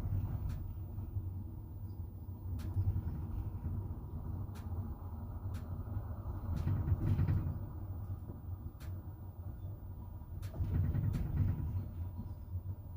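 Double-decker passenger train running, heard from inside the carriage: a steady low rumble of wheels on track that swells louder three times, with an occasional sharp click.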